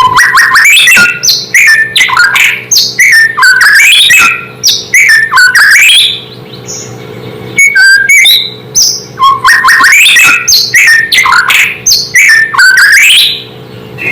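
White-rumped shama (murai batu) singing a loud, fast, varied song of whistled phrases with sliding and sweeping notes, pausing briefly about halfway through. This is the kind of song used as a lure because it provokes other shamas.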